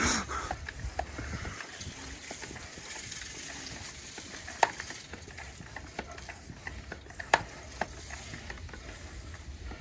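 Scattered, irregular light clicks and knocks of hand-tool work on metal, over a low steady rumble.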